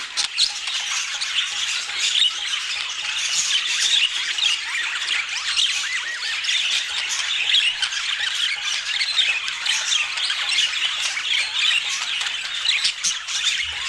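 A flock of budgerigars chattering and squawking continuously, many short overlapping chirps and warbles with no pause.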